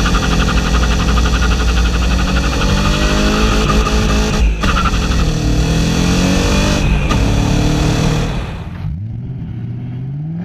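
BMW M60 V8 in an E30 accelerating hard through the gears, its pitch climbing in each gear, with upshifts about four and a half and seven seconds in. Near the end it goes quieter as the driver lifts off, then the pitch starts climbing again.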